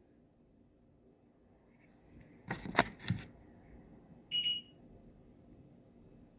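A few light knocks and clicks of things being handled, then a single short, high-pitched electronic beep about four seconds in.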